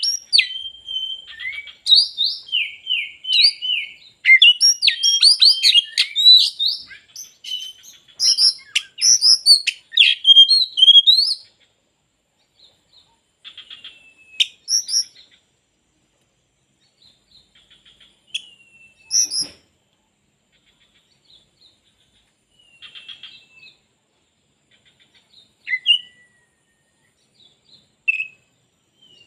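Oriental magpie-robin (kacer) singing a loud, rapid song of varied whistled and chattering phrases for about the first eleven seconds. After that it gives only scattered short calls and brief phrases with pauses between them.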